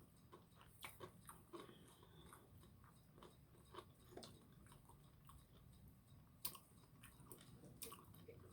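Faint close-up chewing and crunching of deep-fried seafood, with scattered small clicks and crackles of the crisp coating and mouth.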